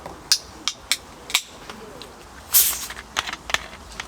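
A series of sharp clicks and taps from utensils and dishes being handled during a meal, about seven in all at irregular intervals, with a longer scraping rustle about two and a half seconds in.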